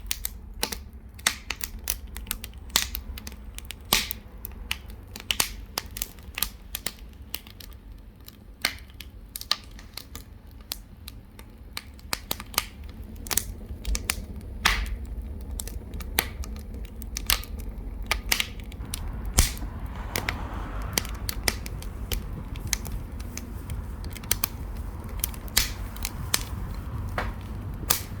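Wood fire crackling in a wood-burning stove: irregular sharp pops and snaps over a steady low rumble.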